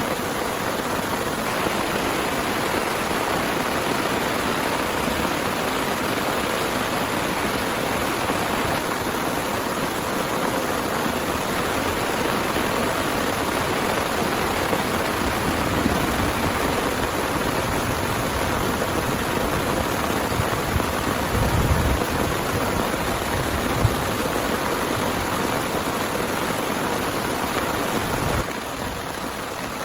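Heavy rain falling steadily, an even hiss of drops, with a brief low thump about three-quarters of the way through.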